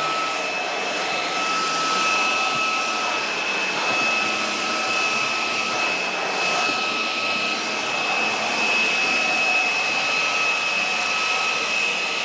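Budget 350W cordless stick vacuum running steadily: a high, even motor whine over a rush of air.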